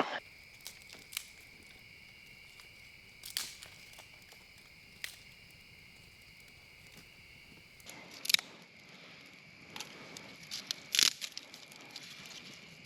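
Dry sticks and leaf litter cracking and crackling, with scattered sharp snaps, as firewood is gathered and handled. The loudest snaps come about 8 and 11 seconds in, over a steady high-pitched drone.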